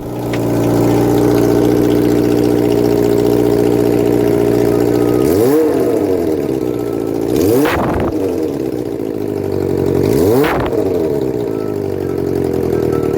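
Motorcycle engine idling steadily, blipped three times, each rev rising and falling back to idle.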